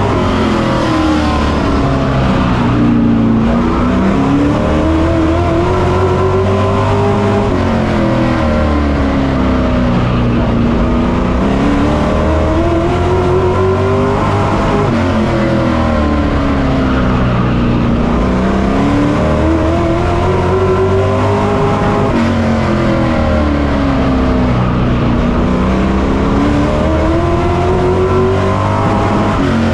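Race truck's engine heard on board at racing speed, its pitch climbing and falling in a repeating cycle about every seven seconds as it accelerates down the straights and lifts for the turns of a short oval.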